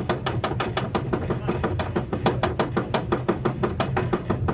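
A roller coaster's lift hill: rapid, even clacking of the chain and anti-rollback as the train climbs, about seven clicks a second, over a steady low hum.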